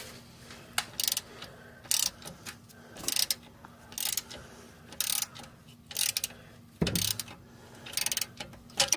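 Socket ratchet wrench clicking in short strokes, about one a second, as a nut is turned.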